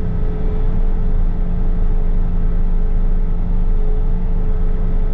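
Bobcat T66 compact track loader's diesel engine running steadily under a constant low drone, with a steady whine above it.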